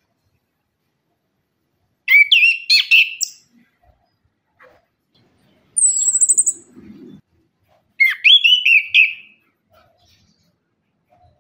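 Chestnut-capped thrush (anis kembang) singing: a short phrase of quick warbling notes about two seconds in and another about eight seconds in, with a brief high thin trill between them.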